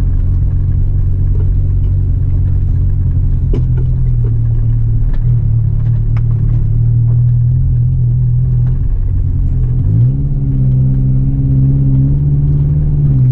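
Suzuki Jimny engine running at low revs, heard inside the cabin, with a few light knocks as it crosses the rutted track. About ten seconds in, the revs rise quickly and then hold steady.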